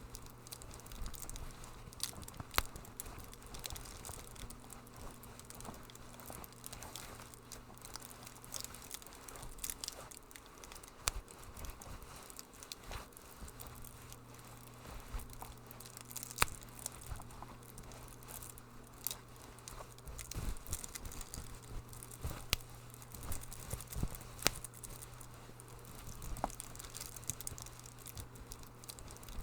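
Wood fire in a fireplace crackling: irregular sharp pops and snaps over a soft hiss, with a steady low hum underneath.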